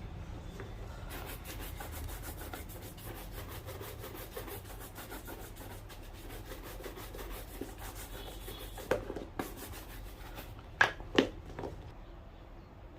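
Rapid brushing strokes on a shoe during shoe shining, followed by a few sharp knocks about nine and eleven seconds in.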